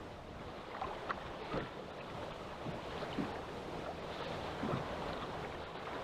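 Wind and choppy water against a small boat, with scattered light knocks and clicks.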